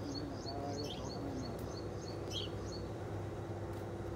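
A small bird chirping over and over, short high falling notes at about three or four a second, stopping about three seconds in, over a steady low hum.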